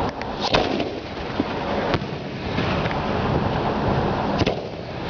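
Fireworks going off: several sharp bangs, a cluster about half a second in, one at two seconds and a double bang near the end, over a continuous rumble of booms.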